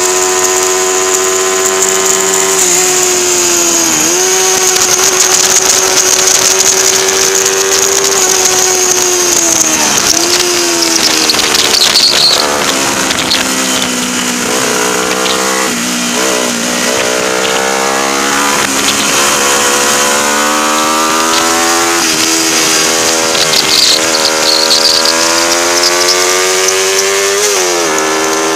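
Race-prepared 1977 Honda 125 twin's four-stroke parallel-twin engine at high revs, heard from a camera mounted on the bike. The revs dip briefly at gear changes about 4 and 10 seconds in. They sag through the middle with short jumps as the bike slows for a bend, then climb steadily again, with another shift near the end.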